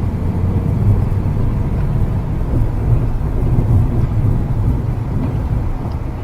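2012 Ford F-250's 6.7 L Power Stroke V8 turbodiesel running steadily, a low drone.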